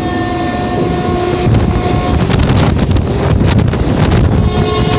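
Mumbai suburban electric local train running, heard from its open doorway: a steady rumble with wind buffeting the microphone and a faint steady whine. About a second and a half in, a quick clatter of wheels over the rails runs for a couple of seconds.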